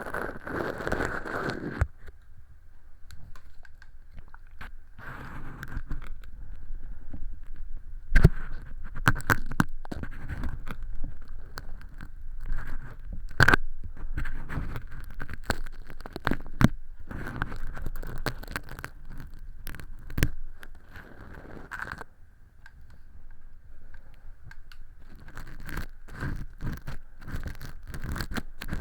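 Earpick scraping and peeling thin, flaky fake earwax inside a silicone ear model, heard very close: irregular scratchy crackling with scattered sharp clicks, easing off briefly twice.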